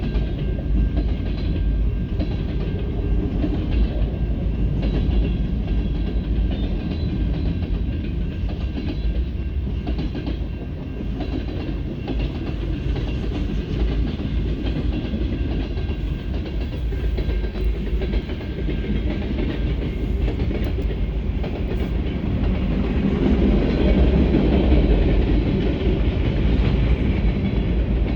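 CSX freight train rolling past, its cars' steel wheels running steadily on the rails. The noise grows a little louder about two-thirds of the way through.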